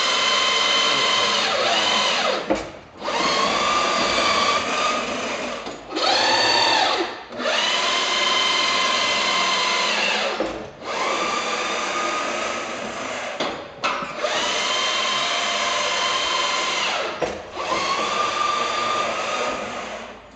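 Electric stair-climber sack truck's motor whining under the load of a fully laden filing cabinet, in about seven runs of two to three seconds each, separated by short pauses as it works up the stairs. Each run's pitch rises briefly as it starts, then holds steady.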